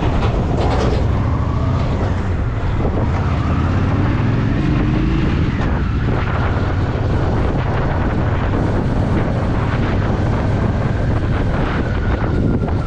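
Honda Shadow VT750's V-twin engine running as the motorcycle rides along, with wind buffeting the microphone.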